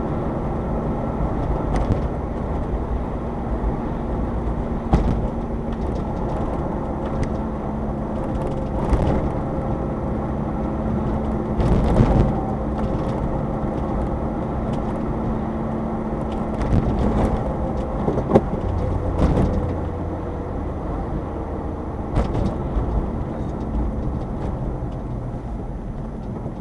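Subaru Sambar kei vehicle driving, its small engine running steadily with road rumble inside the cabin and an occasional knock from bumps; the engine note shifts about two-thirds of the way through.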